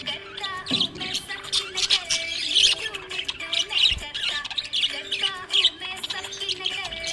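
Budgerigar chirping and chattering in a quick, continuous run of short chirps that glide up and down in pitch.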